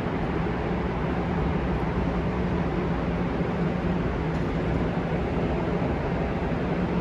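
Steady background hum and hiss of a car-show venue, with no distinct events.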